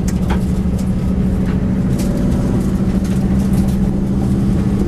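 V8 race car engine running loud and steady at a near-constant pitch, with a few light clicks.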